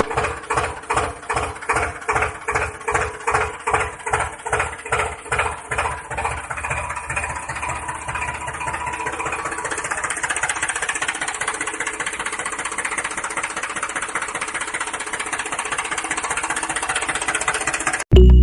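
Tractor engine chugging in slow, even beats, about three to four a second. After about seven seconds it settles into a faster, steady run, then cuts off abruptly near the end.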